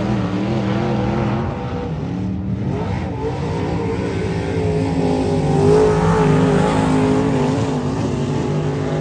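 Several dirt-track race car engines running at once during practice, their pitch rising and falling as they lap the oval, a little louder about six seconds in.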